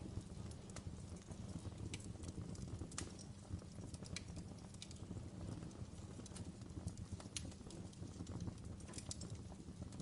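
Wood fire burning in a fireplace: a low, steady rumble of flames with irregular sharp crackles and pops from the burning logs.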